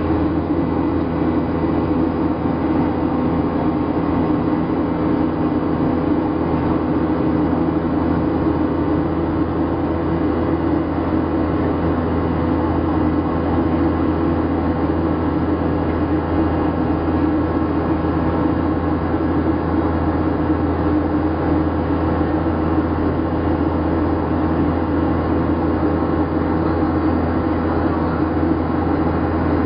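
Steady cabin drone of a Boeing 737-700 in flight: engine and airflow noise at an even level, with a few constant humming tones and no change in pitch.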